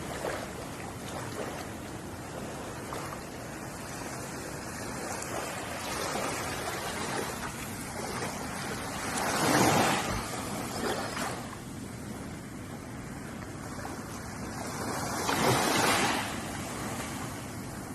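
Ocean waves washing onto a shore, a steady surf wash with two louder breakers, one about halfway through and one near the end.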